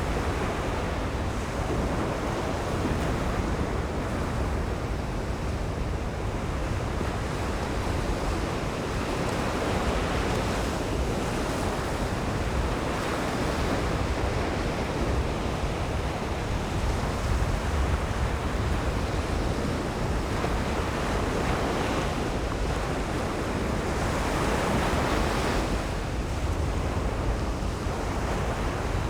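Ocean surf: waves breaking and washing up a sandy beach in a continuous rush, swelling now and then, with wind rumbling on the microphone.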